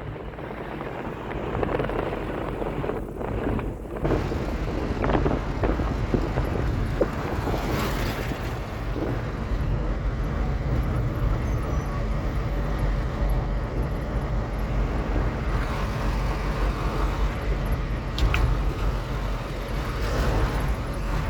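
A car on the move: steady low rumble of engine and road noise, with a few brief knocks.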